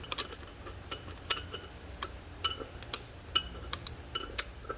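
Steel gears and shafts of an M5R1 manual transmission clinking against each other, about a dozen irregular sharp clinks with a short ring, as the input shaft is worked into the case at an angle.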